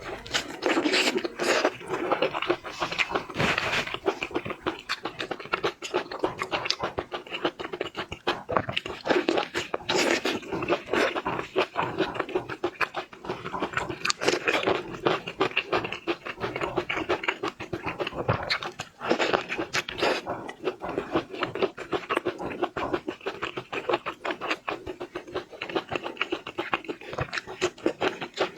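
Close-up, continuous wet chewing, smacking and slurping of a person eating cooked shrimp, with many small clicks and crackles.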